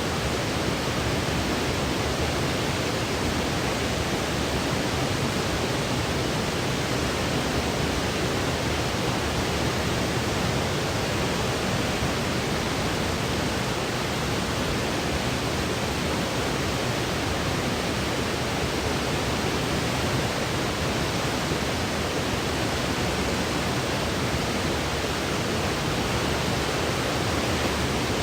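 Steady, unchanging electronic noise of the pink-noise kind, even from low to high pitches and fading above the top, without any rhythm or events.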